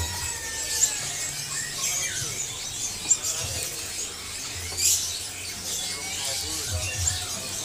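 Many small caged birds chirping and twittering together, short high squeaky calls overlapping, with a few sharp clicks and a low rumble underneath.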